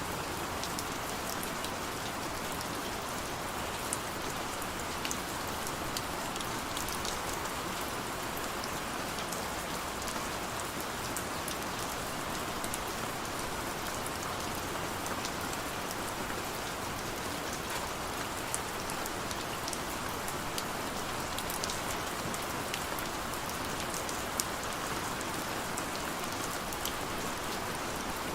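Heavy rain falling steadily, a constant hiss with many small sharp drop ticks on top.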